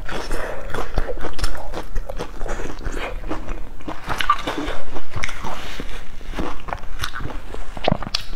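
A person loudly chewing and crunching a crisp breaded fried patty: irregular crunches and chewing sounds, with a fresh bite near the end.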